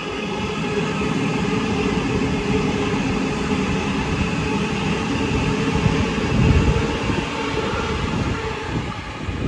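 Sydney Waratah double-deck electric train passing on the adjacent track: a continuous rumble of wheels on rail with steady whining tones. It builds about a second in and is loudest about six and a half seconds in.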